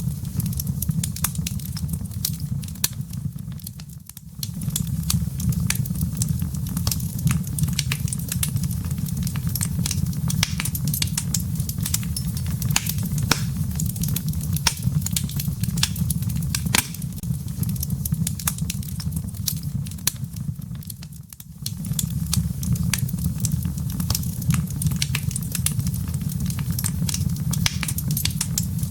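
Wood fire burning in a fireplace: many sharp crackles and pops over a steady low rumble of flame. The sound dips briefly twice, about four seconds in and again just past twenty seconds.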